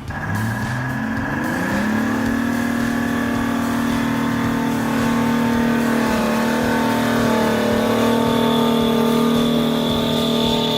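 An engine slows, revs back up about two seconds in, and then holds a steady high speed.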